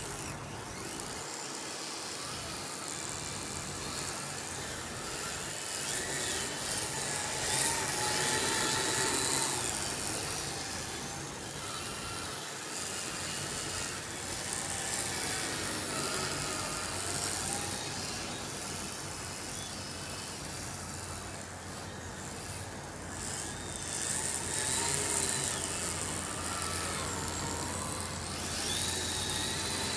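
Kyosho Blizzard SR radio-controlled snowcat driving on heavy metal tracks, its Titan 380 electric motors whining and rising and falling in pitch as the throttle changes, over a continuous hiss from the tracks and drive.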